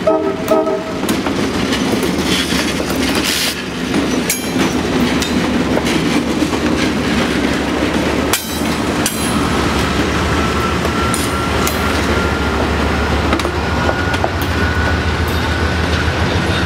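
Diesel-hauled passenger train passing close by. The tail of a multi-tone air horn blast cuts off just at the start, then comes the steady rumble of the locomotives and stainless-steel passenger cars, with wheels clicking over the rail joints. A thin, slightly rising wheel squeal runs through the second half.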